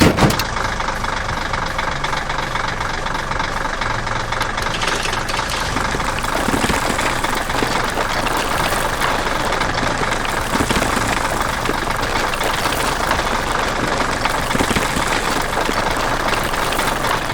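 Engine of a heavy construction machine running steadily, with a rapid knocking rattle.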